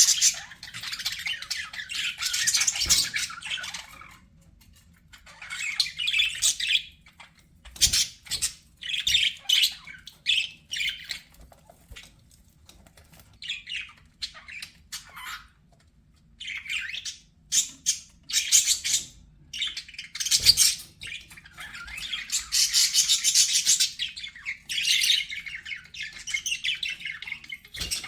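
Budgerigars chattering and warbling in bursts of a few seconds, with short, sharp chirps and brief pauses in between.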